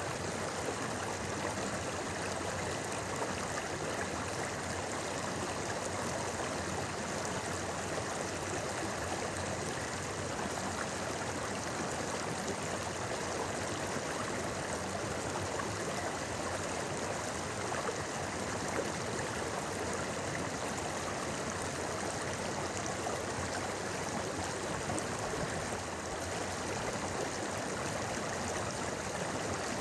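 A shallow river or stream flowing steadily over rocks, with a constant babble and gurgle of water.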